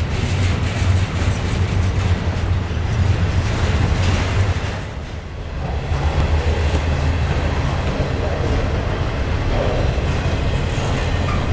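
Double-stack intermodal freight cars rolling past at close range, their steel wheels running on the rails in a steady low rumble. The loudness dips briefly about halfway through.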